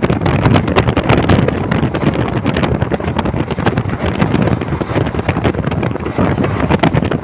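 Passenger train running, with a steady rattling clatter of the moving carriage and wind buffeting the microphone.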